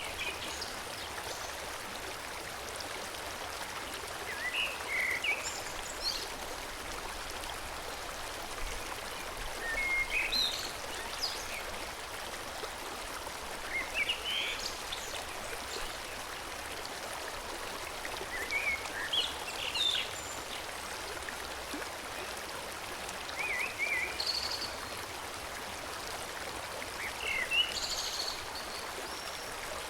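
A forest stream flowing steadily, with birds singing short chirping phrases every few seconds over the water.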